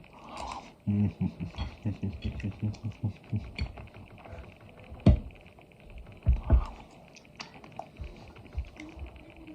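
Chicken being chewed close to the microphone: soft rhythmic thuds, about three or four a second, then a few sharper mouth clicks and smacks.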